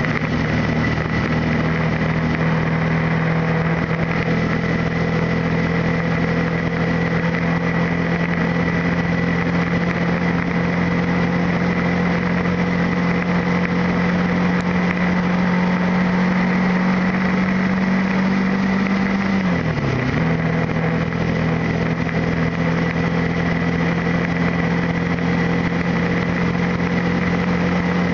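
Motorcycle engine running at a steady pitch while riding. About twenty seconds in, the pitch dips briefly and then returns to the same steady level.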